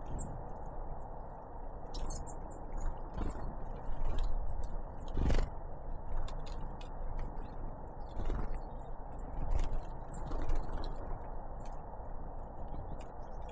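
Great tits and blue tits pecking and tapping at seed close to the microphone, irregular sharp clicks with a few brief high chirps, over a steady low rumble.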